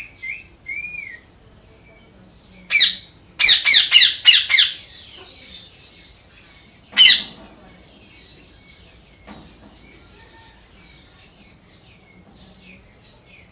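Parrots calling: a few short chirps near the start, then loud harsh squawks about three seconds in, a quick run of five or so, and one more about seven seconds in.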